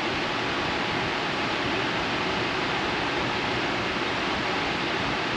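Steady, even rushing noise of a running fan moving air, with no other events.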